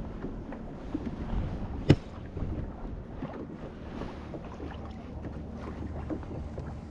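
Small knocks and rustles of gear being handled aboard a fishing kayak, with wind on the microphone and one sharp knock about two seconds in.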